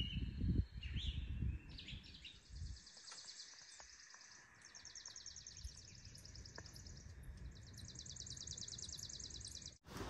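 Wind gusting against the microphone in low rumbles, then a bird giving three long, rapid, high-pitched trills, one after another.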